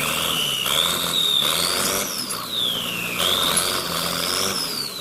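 Vehicle engine running under varying load, with a high-pitched whine that rises and falls several times as it revs up and down.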